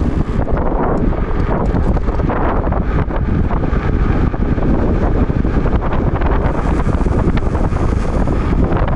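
Loud, steady wind noise on the microphone, the rush of air over the camera while riding an e-bike.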